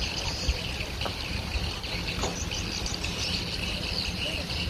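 Insects chirring steadily in a high, shrill chorus over a low, steady rumble.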